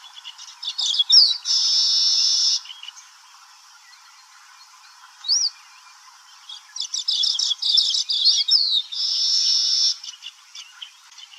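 Baya weaver singing: two phrases of rapid ticking chips and quick slurred whistles, each ending in a steady buzzy note about a second long, with a single short slurred note between them.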